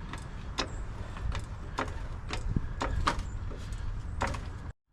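Sharp metallic clicks, about two a second, as a bolt is fitted to the fuel tank strap, over a steady low rumble; the sound cuts off suddenly near the end.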